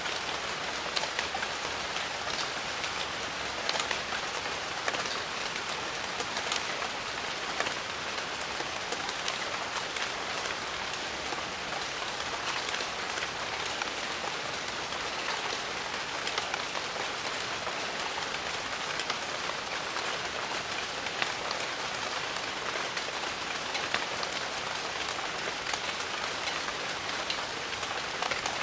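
Steady rain falling on jungle foliage, an even dense hiss scattered with the clicks of single drops.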